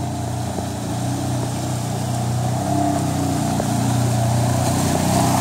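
Off-road vehicle engine running steadily, its pitch shifting a little as the throttle changes.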